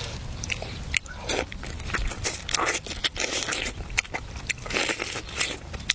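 Crunchy food being bitten and chewed close to the microphone: a run of irregular crunches and scrapes.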